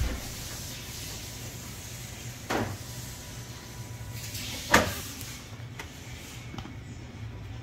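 A door being opened and shut: a low thump at the start, then two sharp bangs about two seconds apart, the second the loudest, over a steady low hum.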